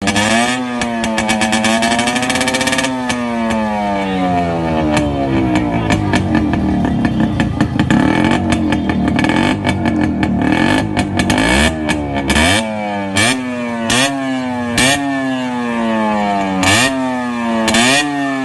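1985 Yamaha RX100's two-stroke single-cylinder engine revving through an exhaust with no muffler. Early on it holds a rev that then falls away, and it runs unevenly in the middle. In the second half come about six short throttle blips, each rising sharply and sinking slowly back in pitch.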